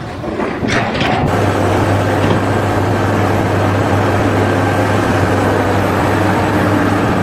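A heavy engine running steadily with a deep, even hum, settling to a constant level about a second in.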